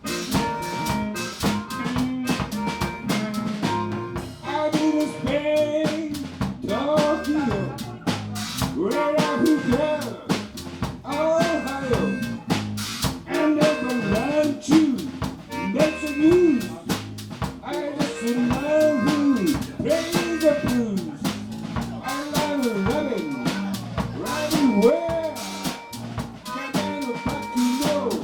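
A live band plays a jazz/blues-style number. A drum kit with rimshots keeps a steady beat under a melodic lead line whose notes bend and slide in pitch.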